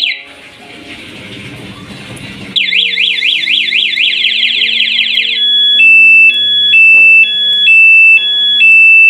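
Motorcycle alarm siren cycling through its tones: a hissing stretch, then from about two and a half seconds in a fast rising-and-falling wail about four times a second, then a high-low two-tone beep alternating about once a second.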